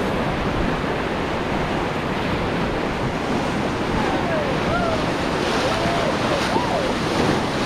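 Steady rush of whitewater on the Ganges rapids around a raft, with wind buffeting the microphone. A few faint distant calls rise and fall in the second half.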